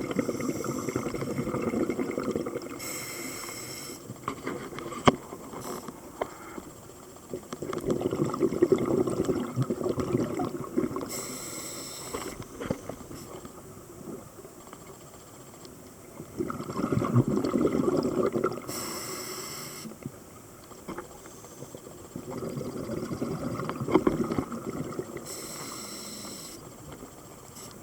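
Scuba diver breathing through a regulator underwater: a rush of exhaled bubbles rumbling for a few seconds, then a short hiss of the demand valve on the inhale, repeating about every eight seconds, four breaths in all. A few sharp clicks stand out.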